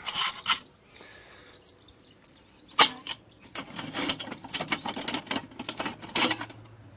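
Hand scrubbing on a Weber kettle barbecue: quick rubbing strokes at the start, a short pause, one sharp loud stroke about three seconds in, then a fast run of strokes.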